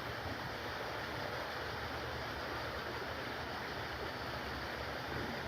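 Steady, even rushing noise with no distinct bird calls standing out.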